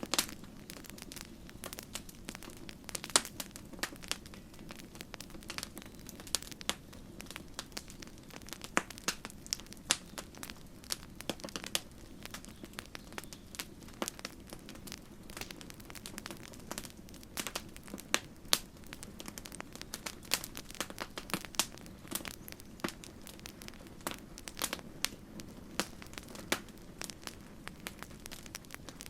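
Wood campfire crackling: irregular sharp pops and snaps over a steady low rush of the burning fire.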